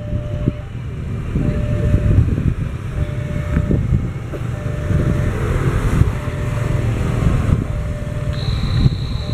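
A train of loaded Pertamina fuel tank wagons rolling slowly over the station tracks: a heavy, continuous rumble of wheels on rail with frequent clanks and knocks from the joints and points. A high steady squeal joins near the end.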